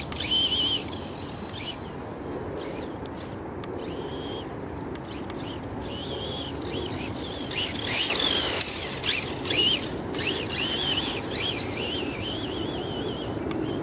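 Vaterra Glamis Uno RC buggy's electric motor whining as it drives, the pitch rising and falling with the throttle, over the rush of its tyres on the ground.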